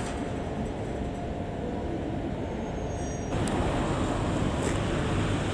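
Steady low rumble of an E3-series Shinkansen trainset at the station, with faint steady tones over it. About three seconds in the sound jumps to a louder, hissing rush.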